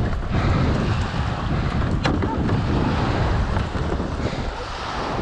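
Wind buffeting the microphone in a heavy low rumble, over water lapping and sloshing, with a single sharp click about two seconds in.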